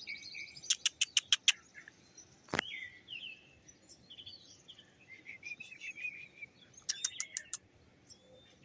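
Northern mockingbird singing a varied song: a quick run of about six sharp repeated notes, a single down-slurred whistle, warbled phrases, then another run of sharp repeated notes.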